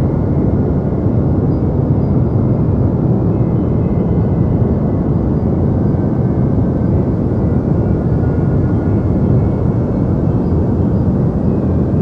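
Deep white noise for sleep: a steady, unchanging hiss weighted toward the low end, like a soft rumble with little treble.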